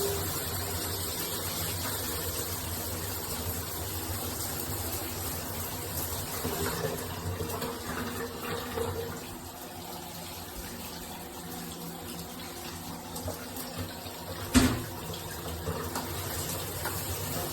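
Water running from a shower head in a steady spray. A single sharp knock about three quarters of the way through is the loudest sound.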